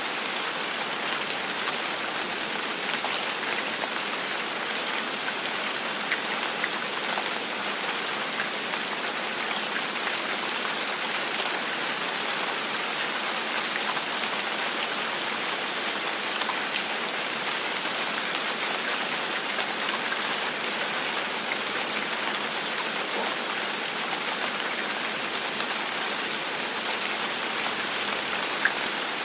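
Steady rain falling, an even hiss with faint scattered drop ticks on a surface.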